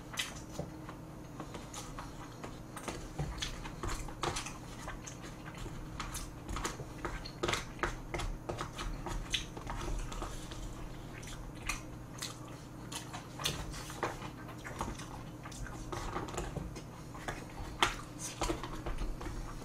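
A person chewing food close to the microphone, with many short clicks and taps of a spoon and chopsticks against plastic takeout containers.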